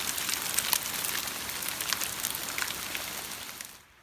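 Rain falling, with many individual drops striking close by as sharp ticks over a steady hiss; the sound cuts off suddenly near the end.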